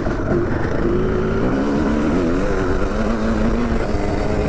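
Dirt bike engine running hard on a motocross track, its pitch wavering up and down with throttle and gear changes.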